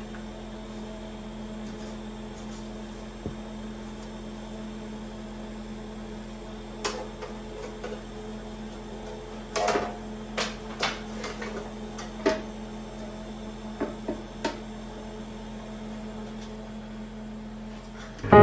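Steady electrical hum of a workshop with a few scattered short knocks and taps, some close together, in the middle stretch.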